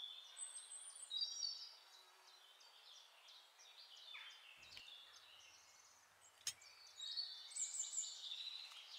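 Small birds chirping and twittering in quick, high notes over a faint hiss of background noise, with one sharp click past the middle.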